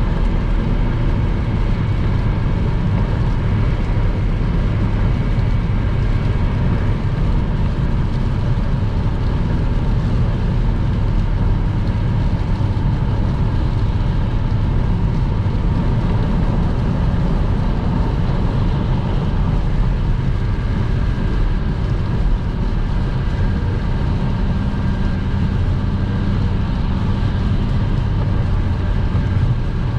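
A car driving at motorway speed in the rain: a steady low rumble of engine and tyres on the wet road, with no change through the stretch.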